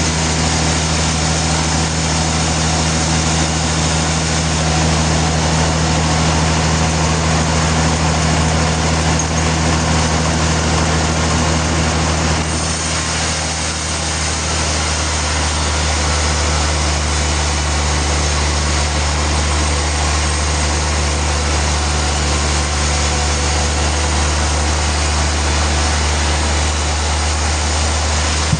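Sawmill machinery running steadily: a constant engine hum under a broad, even mechanical noise, dipping slightly about halfway through before carrying on.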